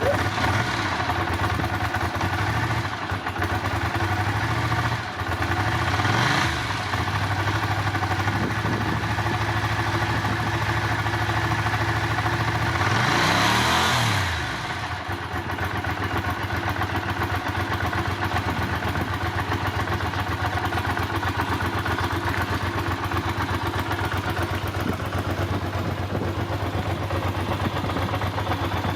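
Ducati Monster 400 S's air-cooled L-twin idling just after a cold start. The throttle is blipped briefly about six seconds in and revved higher around thirteen seconds, the revs rising and falling each time before the engine settles back to a steady idle.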